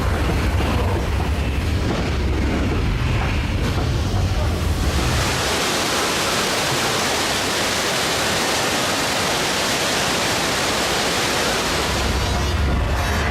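Earthquake ride special effects: a deep rumble, giving way about five seconds in to a loud, even rush of flood water pouring in, with the rumble returning near the end.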